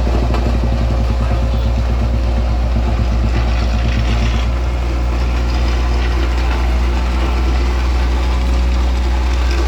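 A heavy vehicle's engine running steadily at a low, even pitch close by, with a slight change in its note about halfway through.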